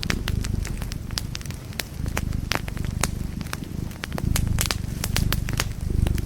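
Wood fire in a fireplace crackling, with frequent sharp, irregular pops over a low, steady rumble.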